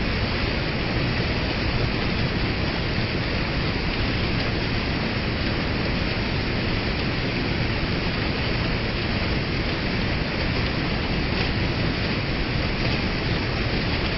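Steady rush of a waterfall and fast river water, a loud, even noise with no breaks.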